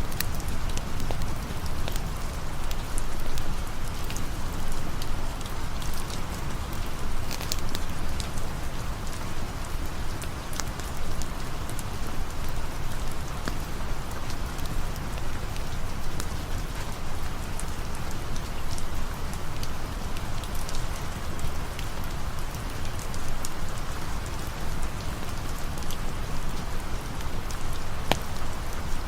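Steady rain falling, an even hiss with scattered sharp ticks of drops throughout.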